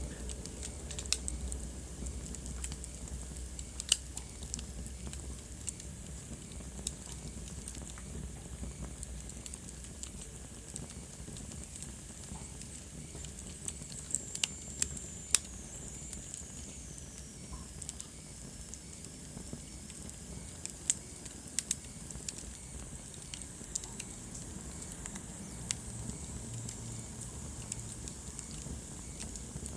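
Wood fire crackling, with sharp irregular pops over a low steady rumble. Around the middle a faint high whistle slides down in pitch.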